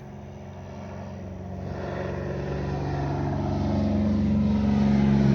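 Airplane engine droning overhead, a steady low hum that grows steadily louder as the plane approaches.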